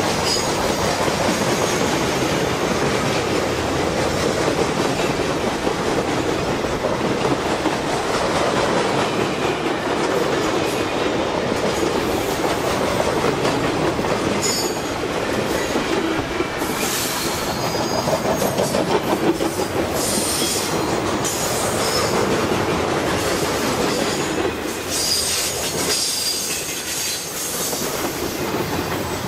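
Freight train cars rolling past close by: a steady rumble and clatter of steel wheels on the rails, with high-pitched wheel squeals breaking in about halfway through and again near the end.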